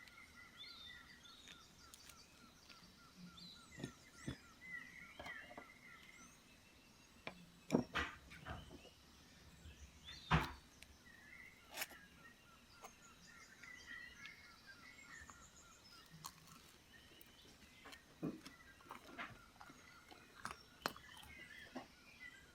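Woodland ambience with faint bird chirps and a steady pulsing trill, broken by a few sharp knocks and clicks around the middle.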